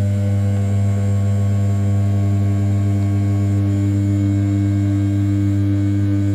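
500 W brushless spindle of an RZ420 desktop CNC mill running at 6000 rpm while its end mill rough-cuts the outer profile of a 7075 aluminium block. It makes a steady, even hum that does not change.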